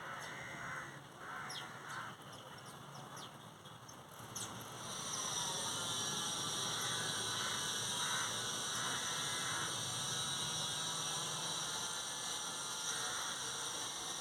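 Birds calling outdoors in short chirps and calls. About four and a half seconds in, a steady high-pitched buzz sets in and holds, becoming the loudest sound.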